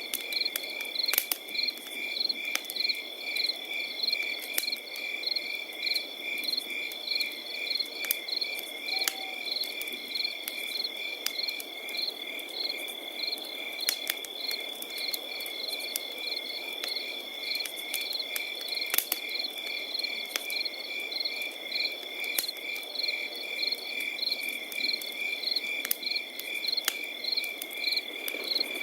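Crickets calling: a continuous high trill with evenly repeated chirps over it. Scattered sharp crackles and pops of a campfire sound over a soft low hiss.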